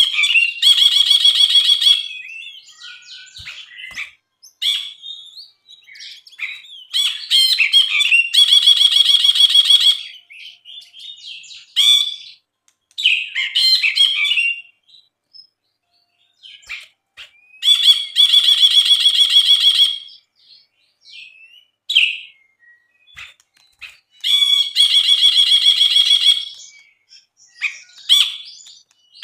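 Brinji (a bulbul) singing: four loud, rapid buzzy trills of about two seconds each, several seconds apart, with shorter varied chirping phrases between them.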